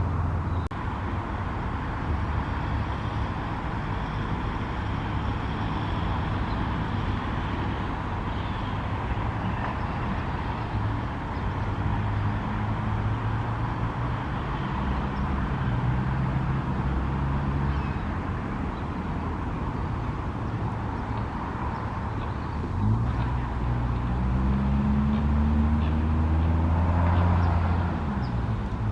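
Road traffic: motor-vehicle engines running steadily. About two-thirds of the way in, one engine grows louder and rises in pitch for several seconds, then drops away near the end.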